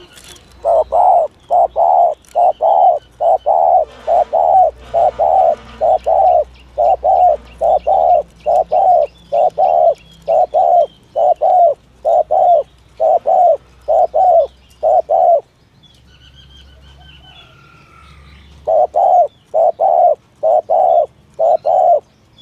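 Spotted dove cooing in a fast, even run of short coos, about two a second. The coos stop for about three seconds after the middle, when small birds chirp faintly, then start again.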